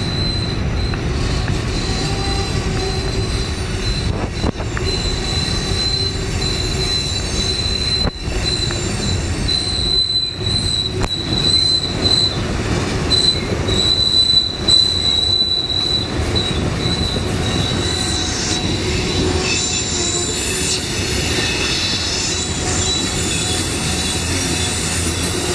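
Freight train's covered hoppers and tank cars rolling past on the sharp Horseshoe Curve: a steady rumble from the wheels and trucks under a high, sustained wheel squeal, which wavers and shifts higher in the last third.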